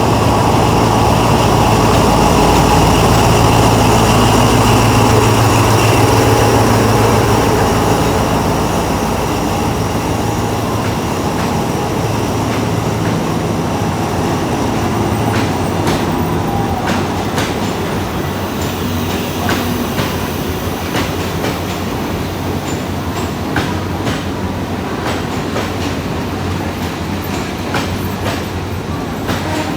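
A diesel train rolls past. Its engine's deep drone is loudest in the first several seconds and then eases off. Through the second half the wheels clack irregularly over the rail joints.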